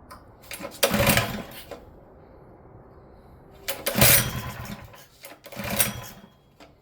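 Three pull-start attempts on a mini bike's small engine, each about a second long, turning the engine over briefly without it settling into running.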